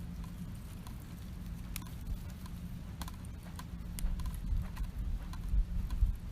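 Wood campfire crackling, with scattered sharp pops and snaps. A low rumble grows louder from about two-thirds of the way in.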